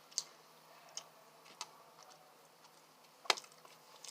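A few scattered soft mouth clicks and smacks from a person chewing food close to the microphone, with one sharper click about three seconds in.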